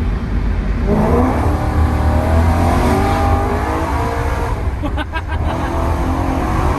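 BMW E90 M3's 4.0-litre V8 through a custom exhaust under hard acceleration, heard from inside the cabin: the revs climb from about a second in, with a short burst of crackles about five seconds in.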